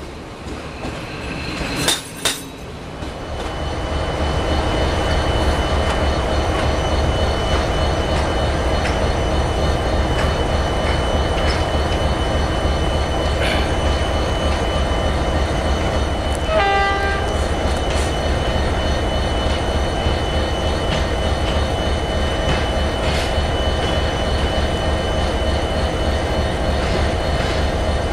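A passing railway coach's wheels knock over rail joints in the first couple of seconds, then a diesel locomotive runs steadily close by with a deep, even rumble. A short horn toot sounds once, about 17 seconds in.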